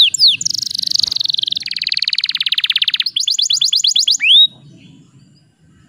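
Domestic canary singing a rolling song made of runs of repeated phrases: quick falling whistled notes, then a fast buzzy trill, then a run of rapid high notes. It ends with a single rising note about two-thirds of the way through.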